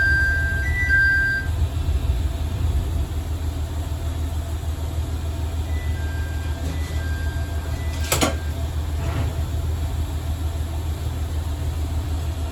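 Diesel railcar's engine running with a steady low rumble. A two-pitch electronic chime alternates high and low at the start and sounds again, fainter, about six seconds in. A single sharp click comes about eight seconds in.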